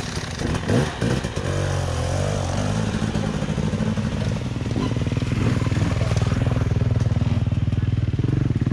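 Dirt bike engine running close by, its pitch shifting during the first couple of seconds, then running steadily.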